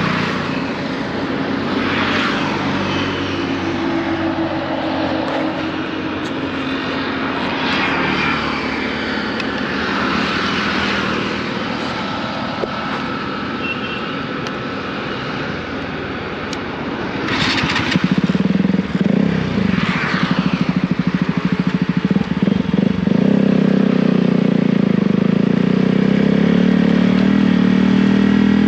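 KTM motorcycle's single-cylinder engine running through an aftermarket Akrapovic exhaust. About two-thirds of the way in it gets louder and closer, with a rapid steady beat, and near the end its pitch rises as it revs.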